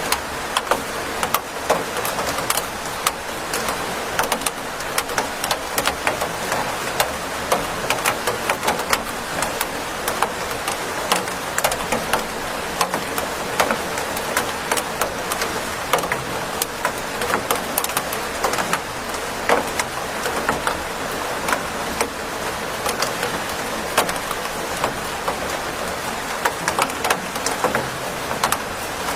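Steady rain falling, a continuous hiss with many sharp, separate drop hits scattered through it.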